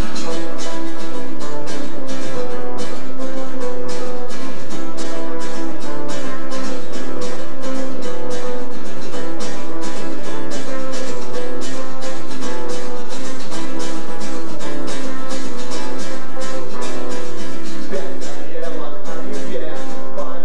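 Guitar music, with strummed chords in a fast, even rhythm throughout.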